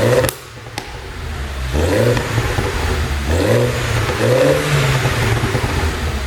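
BMW R55 Mini Clubman S's turbocharged 1.6-litre four-cylinder blipped through about four free revs. Just after the first rev drops away there are two sharp exhaust pops, the overrun pops of a pop-and-crackle tune.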